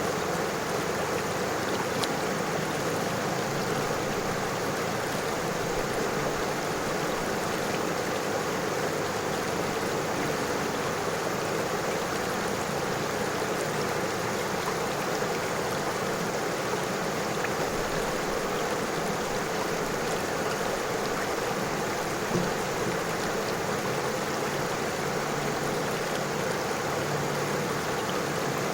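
River water flowing and rushing steadily over stones, an even, unbroken wash of sound with a couple of faint ticks.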